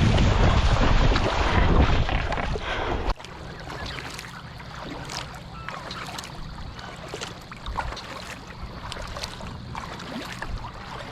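Wind buffeting the microphone, cutting off abruptly about three seconds in. After that, quieter water lapping and dripping with small scattered knocks, as on a kayak on calm water.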